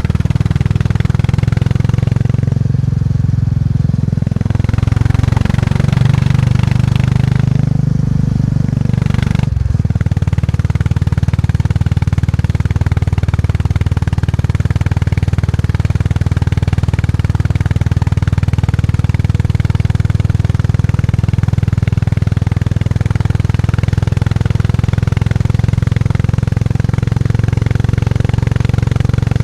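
Motorcycle engine running under way on the road. Its note shifts over the first several seconds and breaks off briefly about nine seconds in, then runs on evenly.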